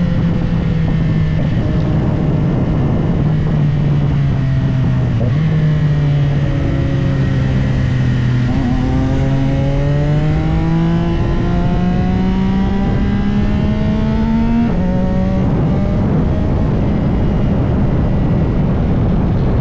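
CFMOTO 675SR-R inline-triple engine heard from on board the moving bike. Its pitch falls at first and jumps up sharply about five seconds in, as on a downshift. It then rises steadily under acceleration and drops at a gear change about fifteen seconds in, over steady wind rush on the microphone.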